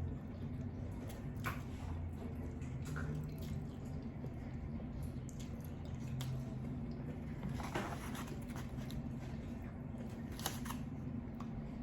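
A person chewing combination lo mein close to the microphone, with scattered short smacks and clicks from the mouth over a steady low hum.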